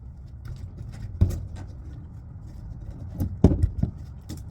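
Sharp knocks from work on the truck camper's wooden floorboards: one about a second in, then a quick run of four a little past three seconds.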